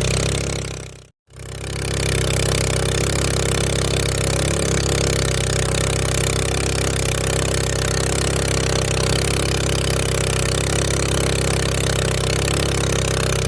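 Honda GX200 single-cylinder four-stroke engine driving a small wooden sampan boat, running at a steady speed with a constant hiss over it. The sound cuts out for a moment about a second in, then carries on unchanged.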